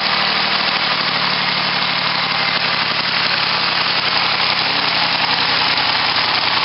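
1968 Lamborghini Miura's V12 engine, fed by four triple-barrel carburettors, idling steadily on all twelve cylinders on its first run after more than 25 years in storage, with the carburettors only roughly set up.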